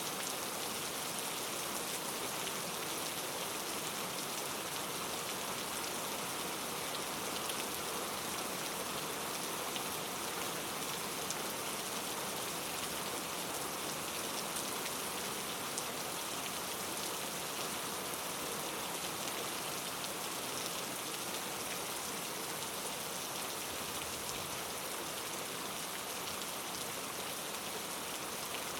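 Steady rain falling, an even hiss of drops with faint individual drop ticks.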